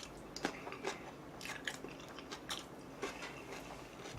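Close-miked chewing and biting of yangnyeom fried chicken, with irregular small crunches and crackles.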